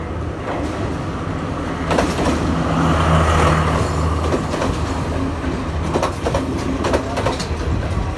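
Sri Lanka Railways Class S11 diesel multiple unit passing close by: a steady diesel engine drone, loudest about three seconds in, with the wheels clacking over rail joints a few times in the second half.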